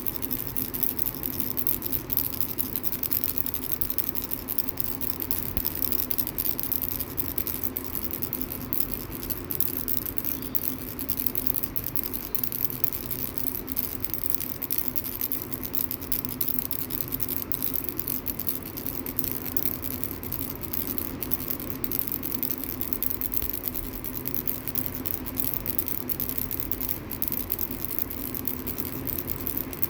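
Small ball-shaped baby rattle shaken without a break, a dense, even rattling.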